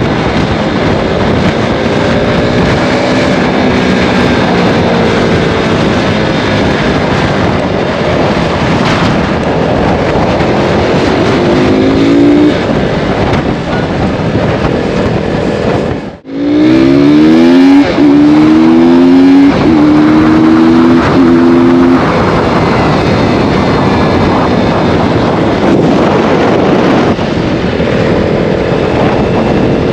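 KTM RC 390's single-cylinder engine, breathing through a K&N air filter, accelerating hard through the gears while riding. The revs climb and drop back at each upshift, over heavy wind noise. The sound cuts out briefly about halfway through, then comes back with a quick run of rising revs and shifts.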